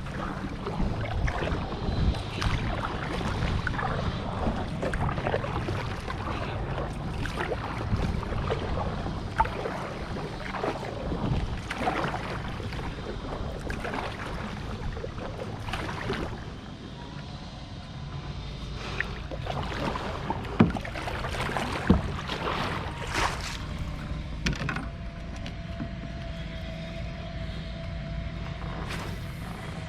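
Kayak on the water: irregular splashes, knocks and clicks of paddle and gear against the hull over a steady wash. A faint steady hum comes in near the end.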